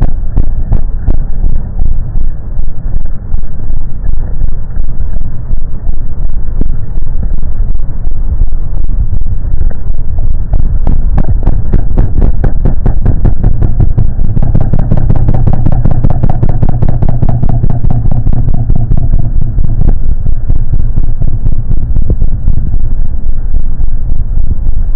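Royal Enfield Classic 350's single-cylinder four-stroke engine running, each firing heard as a distinct exhaust beat in a steady rhythm. The engine grows louder and fuller for several seconds a little past the middle, then settles back.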